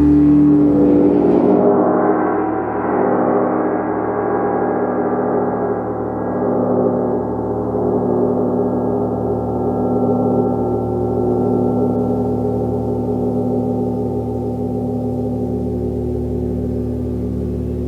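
A large gong ringing with a dense wash of overtones. It swells in the first couple of seconds, then slowly thins as the higher overtones die away, with a slow wavering beat in its low hum.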